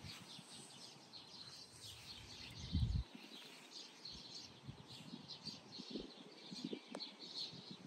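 Small birds chirping, with many short high chirps repeating throughout, and a brief low thump on the microphone about three seconds in.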